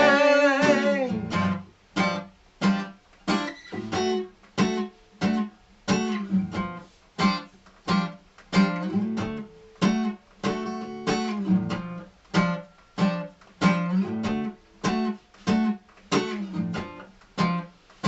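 Acoustic guitar strummed in a steady, even rhythm as an instrumental break between sung lines. A held sung note trails off about a second in.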